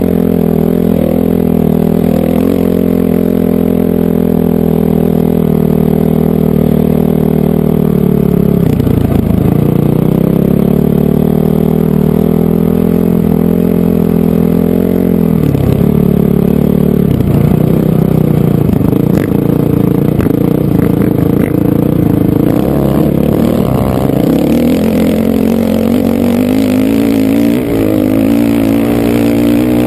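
Honda CRF450R dirt bike's single-cylinder four-stroke engine running hard at steady throttle. The pitch dips sharply three times and climbs back as the throttle is rolled off and on again or a gear is shifted.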